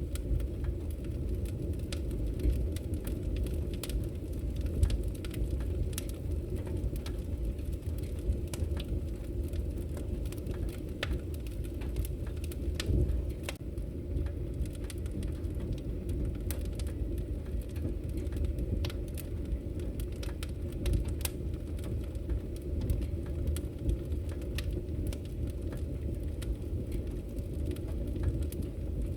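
Wood fire crackling in a fireplace: a steady low rumble of burning, with frequent irregular small pops and snaps.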